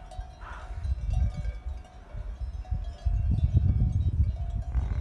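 Wind buffeting the microphone, heavier from about three seconds in, with faint bells ringing among a grazing yak herd.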